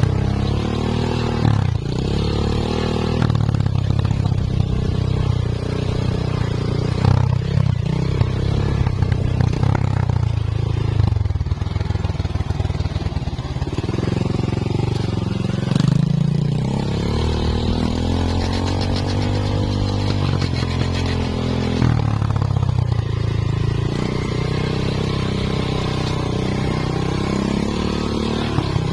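Two-stroke chainsaw running under load in a cut. Its engine pitch rises and falls repeatedly as it bogs and recovers.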